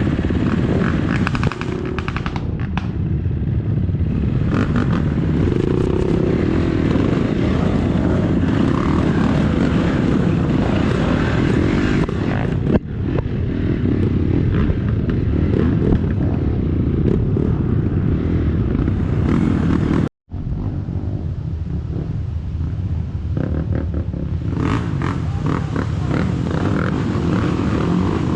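KTM 250 enduro dirt bike's engine running under way on a trail, with a steady mechanical drone and a few clattering knocks; the sound cuts out for an instant about two-thirds of the way through.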